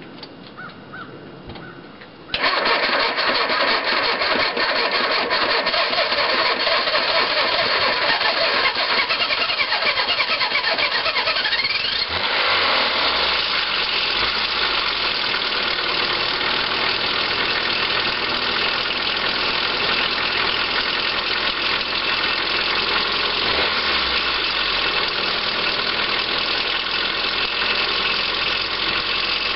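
1994 Nissan pickup engine cold-starting: it catches suddenly about two seconds in and runs at a fast cold idle, settling a little about halfway through. It has a ticking that the owner puts down to a failing oil pump slow to build pressure.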